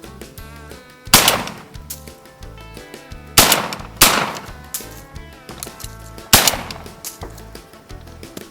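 Four shotgun shots: one about a second in, two in quick succession in the middle, and one more near the end, each with a short ringing decay. Background music with a steady beat plays underneath.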